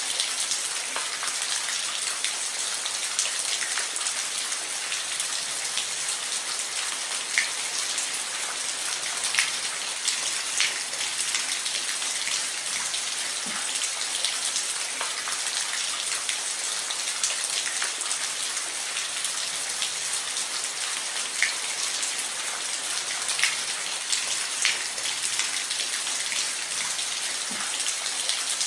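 Steady rain falling on a roof: an even hiss with individual drops ticking now and then.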